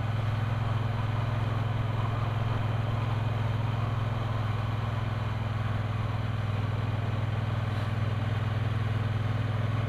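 Triumph Bonneville T120's parallel-twin engine running at a steady speed on the move, a constant low drone with no change in revs.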